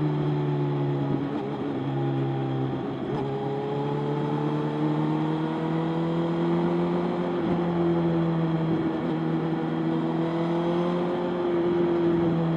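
Motorcycle engine running steadily under way, its pitch dipping slightly about two seconds in, then rising slowly and holding.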